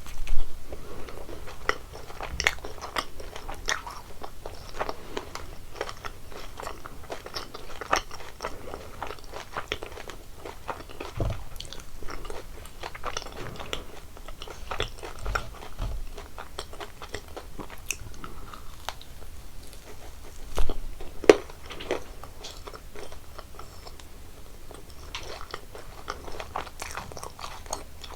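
Close-miked chewing and biting of sweets such as jelly candies: many irregular crunching bites, with louder ones just after the start and about twenty seconds in.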